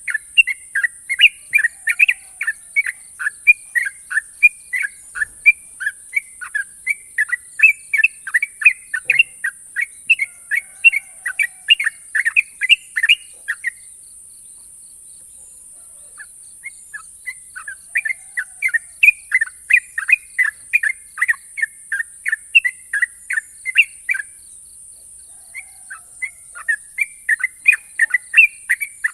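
Yellow-vented bulbul (trucukan) singing its long, sharp rapid-fire "ropel" song: runs of quick, piercing repeated notes, several a second, broken by two pauses of a few seconds. A steady high hiss runs underneath.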